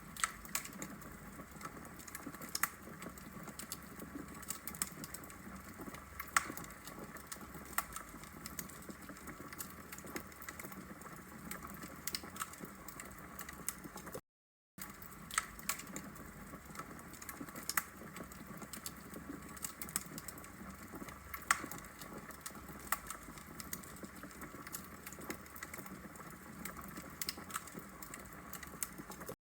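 Wood fire in a fireplace crackling: burning logs giving off frequent, irregular sharp pops and snaps over a low steady hiss. The sound breaks off for a moment about halfway through.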